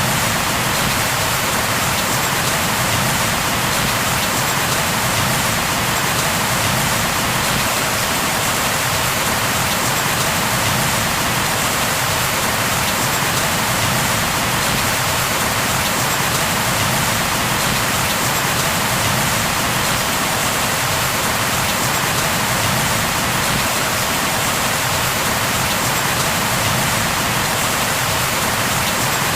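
Steady rain falling on a surface: an even, unbroken hiss of dense raindrops with no thunder or distinct drips standing out.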